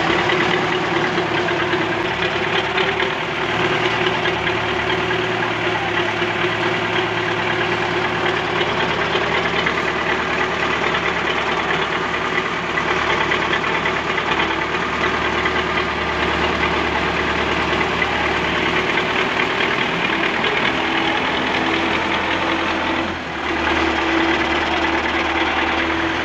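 Tractor engine running steadily, with a short dip in level near the end.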